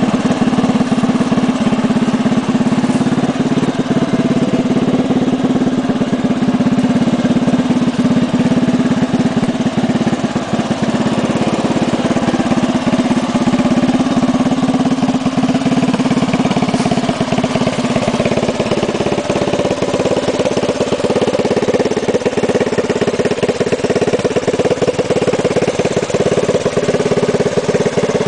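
Honda ATV engine of a lifted golf cart running steadily, its note shifting higher about two-thirds of the way through.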